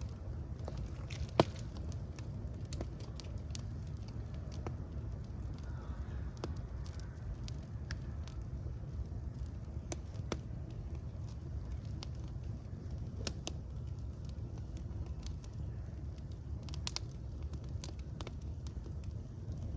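Fire burning with a steady low rumble and scattered crackles and pops, including one sharp, loud pop about a second and a half in.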